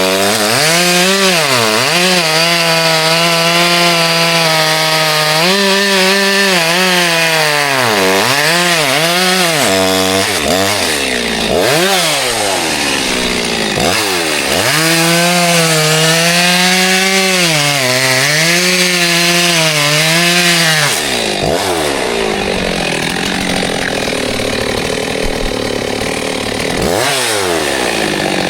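Chainsaw running at high revs and cutting wood, its engine pitch repeatedly dipping and recovering as the chain bites in. After about twenty seconds the steady note gives way to a rougher, noisier sound.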